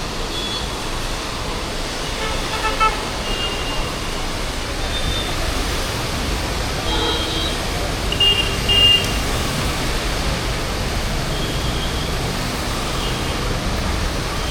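Busy street traffic noise with several short vehicle horn toots, the loudest two about eight to nine seconds in.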